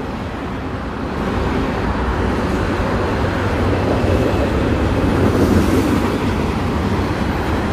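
CSX freight train rolling past: a steady rumble and rush of wheels on rail, a little louder after the first second.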